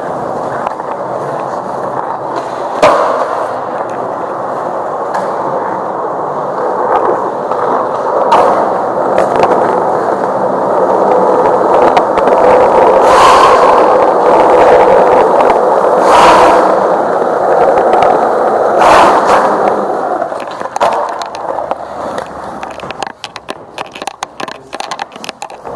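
Skateboard wheels rolling on pavement, a steady grinding roll that grows louder through the middle and dies away near the end. Several sharp clacks sound over it, about five spread through the ride, with scattered ticks as it slows.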